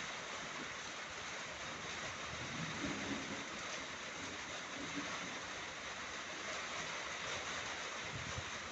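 Rain falling in a thunderstorm: a steady, even hiss with no thunder clap.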